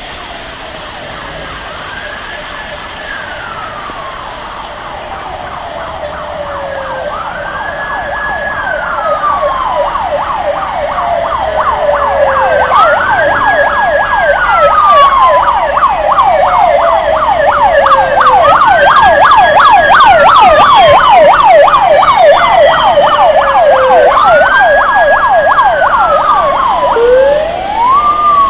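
Ambulance siren drawing near and growing much louder over the first half. A slow wail climbs, holds and sinks about every six seconds, with a fast yelping warble laid over it. Near the end it switches to a tone that rises and then holds steady.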